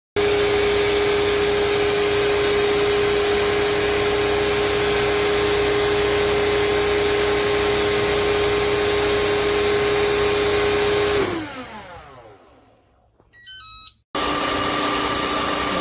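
A household appliance's electric motor running with a steady whine, switched off about eleven seconds in and spinning down with falling pitch, followed by a few short electronic beeps. After an abrupt cut, a motor runs again with a higher steady whine.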